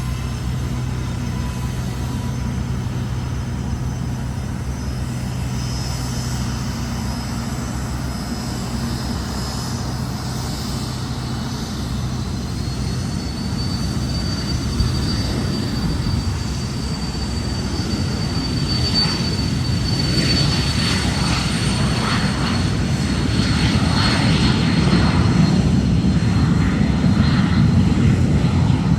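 HondaJet's twin turbofan engines spooling up for takeoff: a high whine rises in pitch a little before halfway and then holds, while the deeper jet noise grows steadily louder toward the end as the jet powers up for its takeoff run.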